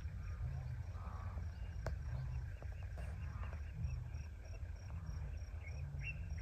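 Wild animals outside calling in a racket of low, repeated grunting calls about once a second, over a steady pulsing chirp of crickets or other insects.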